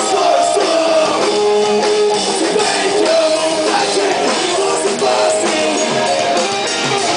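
Live rock band playing loudly: electric guitars holding chords over the band.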